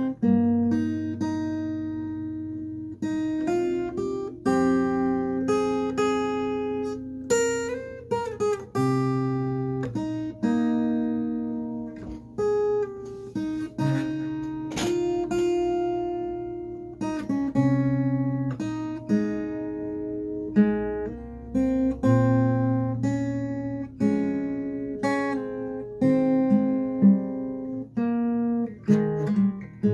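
Acoustic guitar playing a slow instrumental melody, fingerpicked notes and chords that ring and fade one after another.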